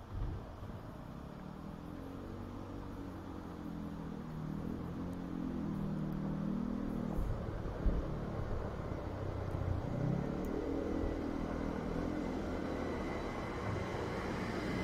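Passenger train approaching and running into the station platform, its rumble and hum growing steadily louder as it nears. A high thin squeal starts near the end as it comes alongside.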